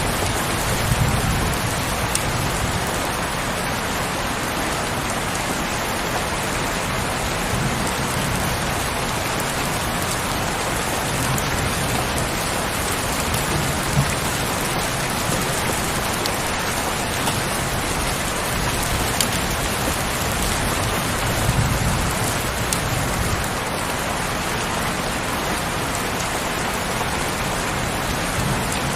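Heavy rain falling steadily, a dense even hiss of drops with a few brief low swells.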